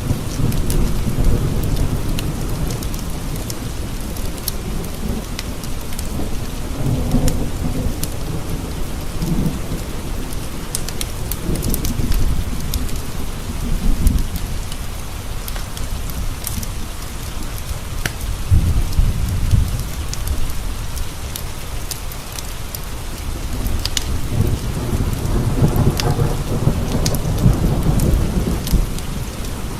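Steady rain with rolling thunder that swells and fades about five times, mixed with scattered sharp crackles.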